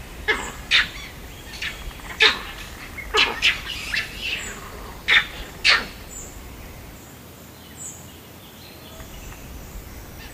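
A bird calling in short, sharp chirps, about ten in quick succession over the first six seconds, then only faint sounds.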